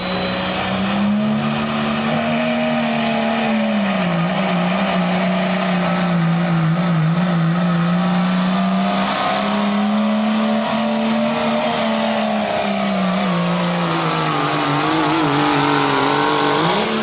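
Work stock pickup truck engine running hard under load while pulling the sled, its pitch sagging and recovering. A high whine rises over the first couple of seconds and then holds steady.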